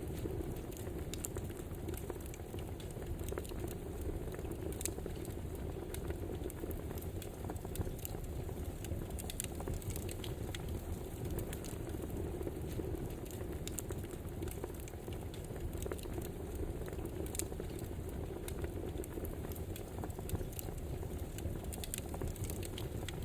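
Campfire burning with a steady rushing bed of sound and frequent, irregular sharp crackles and pops from the burning wood.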